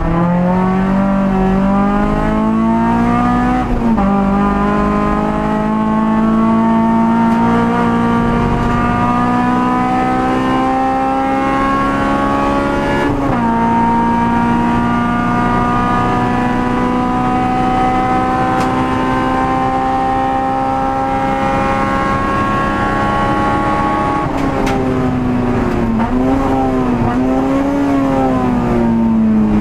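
Honda Civic EG6 race car's four-cylinder VTEC engine at full throttle, heard from inside the cabin: it climbs in revs with a sharp drop at each of two upshifts, then pulls slowly higher in one gear for about ten seconds. Near the end it falls away under braking, with two short throttle blips on the downshifts.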